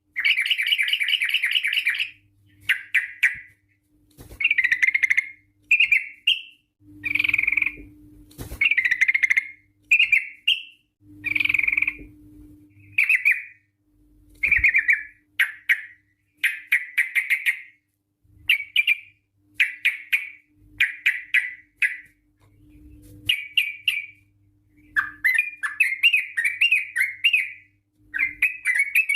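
Yellow-vented bulbul (trucukan) singing: a run of short, bubbly, warbling phrases repeated with brief pauses, becoming denser and more continuous near the end.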